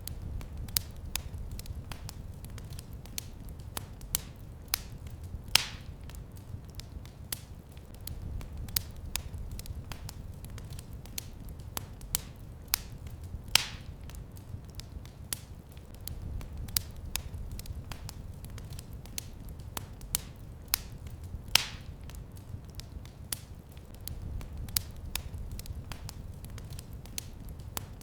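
Fire in a fireplace crackling: a steady run of small sharp crackles, with a louder pop about every eight seconds, over a low rumble.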